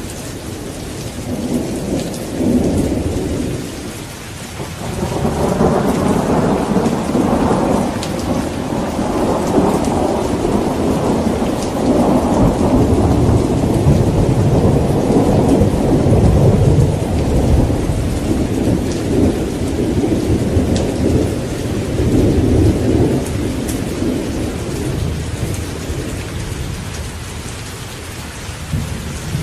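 Thunderstorm: steady heavy rain with thunder. A short rumble comes about a second in, then a long rolling rumble builds from about five seconds in and dies away near the end.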